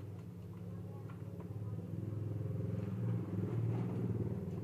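Motorcycle engine running with a steady low rumble, getting louder about two seconds in.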